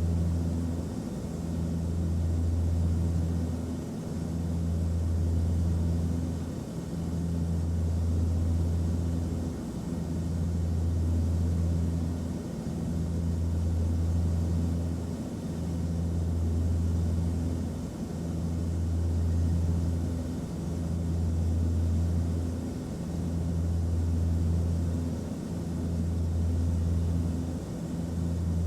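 Airliner cabin noise: a steady low drone of engines and airflow with a faint hum above it, swelling and easing in loudness about every three seconds.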